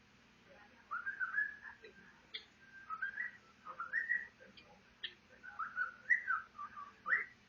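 Cockatiel whistling its song: a string of short warbling notes sliding up and down in pitch, starting about a second in.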